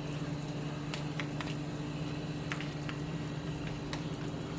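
A fork mashing soft cooked pumpkin, giving scattered light clicks and taps, over a steady low hum.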